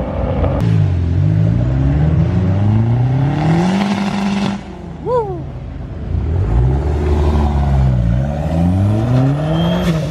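Car engine revving: the pitch climbs steadily for a few seconds, drops off sharply about halfway through, then climbs again. A brief high squeak comes just after the drop.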